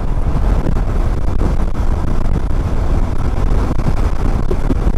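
Motorcycle riding at road speed, heard from a rider-worn camera: steady wind noise on the microphone mixed with engine and road noise, mostly low-pitched.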